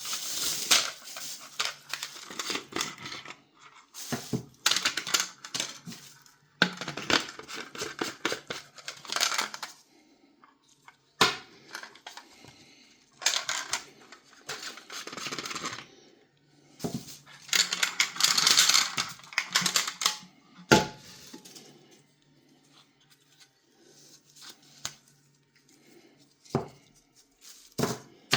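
Hard plastic parts of a sports filter water bottle being handled: bursts of scraping and rustling, with several sharp clicks.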